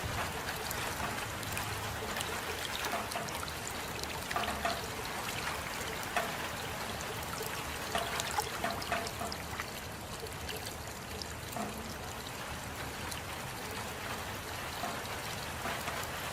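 Steady rain falling, with the sharper taps of single drops scattered through it, more of them in the first half.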